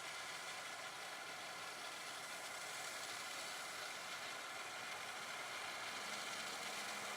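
Faint, steady jet engine noise of a distant airliner, with a low steady hum coming in near the end.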